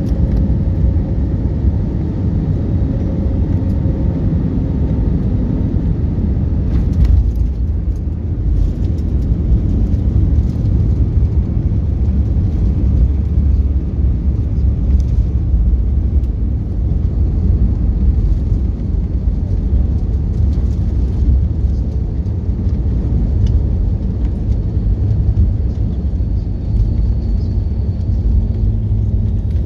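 Steady low rumble of an airliner on the ground after landing, its engines and wheels running. About seven seconds in there is a click, and the higher part of the noise falls away.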